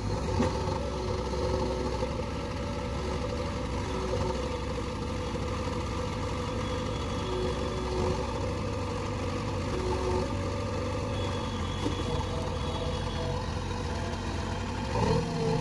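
Backhoe loader's diesel engine running steadily at a low, even speed.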